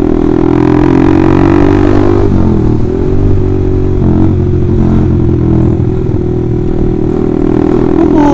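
Honda CBR150R's single-cylinder four-stroke engine running loud through an Austin Racing aftermarket racing exhaust while riding under throttle. The pitch dips and climbs again a little over two seconds in.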